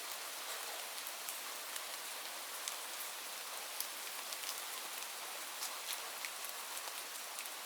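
Steady rainfall: an even hiss of rain with scattered individual drops ticking sharply on a hard surface.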